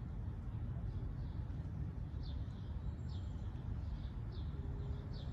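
A small bird chirping repeatedly: short, quick, falling chirps, about two a second from about two seconds in, over a steady low outdoor rumble.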